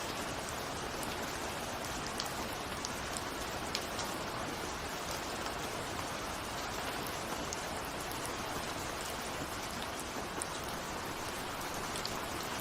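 Steady rain, a constant hiss with scattered individual drops ticking against a window.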